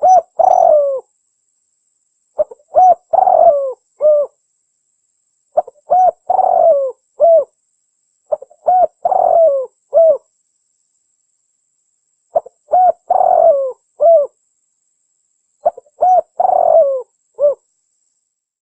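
A dove, the terkukur merah, cooing: six phrases of four or five low hooting coos each, repeated every three to four seconds, the kind of call recording played to lure the bird in.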